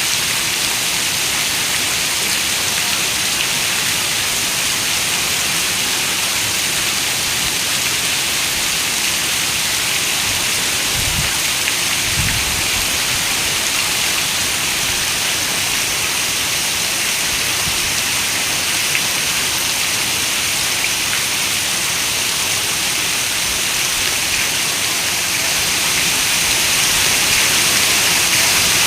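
Heavy rain falling steadily on a window, an even hiss, with two brief low rumbles near the middle.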